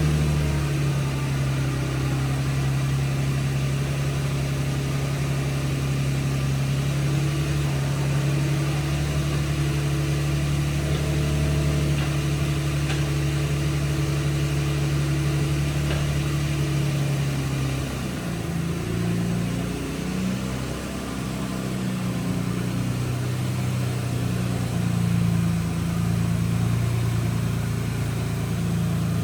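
Nissan G35's freshly swapped V6 engine idling steadily after a cold start. About eighteen seconds in, the idle note wavers and shifts for a few seconds, then settles steady again.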